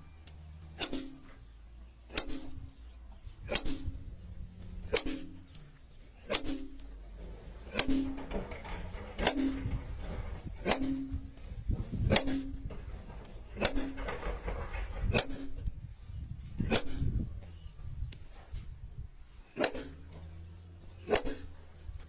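Steel hammer and chisel striking granite by hand: a sharp ringing metallic strike about every one and a half seconds, about fifteen in all, with a short pause near the end.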